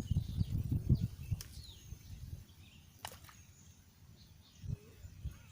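Small birds chirping faintly in the background, under a low rumbling noise that fades out after the first couple of seconds. A single sharp click comes about three seconds in.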